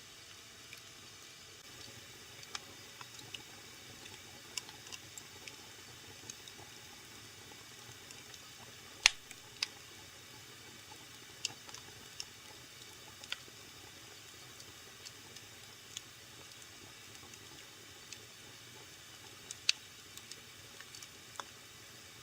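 Wood fire burning in a fireplace: a soft steady hiss with scattered sharp crackles and pops, the loudest about nine seconds in and again near the end.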